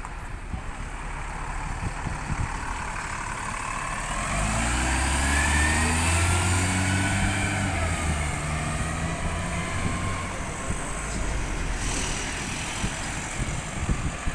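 A bus passing close by on a city street, its engine pulling under load. The engine note swells in about four seconds in, with a whine above it, and fades after about ten seconds.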